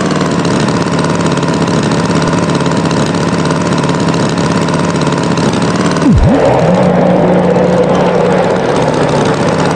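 Cartoon tractor engine sound effect running steadily. About six seconds in a quick swoop dips and rises, and the engine note then changes to a new steady pitch.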